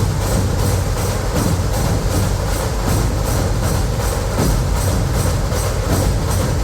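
Dhol-tasha troupe playing together: large dhol drums give a heavy, steady beat under the sharp, rapid strokes of tasha drums, keeping an even fast rhythm of about four strokes a second.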